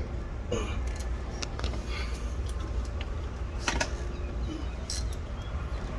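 Scattered metal clicks and light knocks of a socket wrench and extension working on a tight spark plug, over a steady low rumble. The sharpest click comes a little past halfway.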